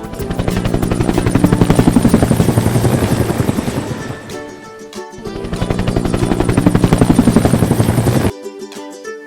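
Helicopter rotor chop, a fast even pulsing that swells, fades about halfway and swells again, over background music. It cuts off abruptly near the end, leaving ukulele music.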